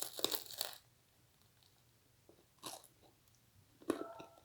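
A person bites into crunchy food close to the microphone: about a second of crackling right at the start, then a couple of brief mouth and chewing sounds near the middle and near the end.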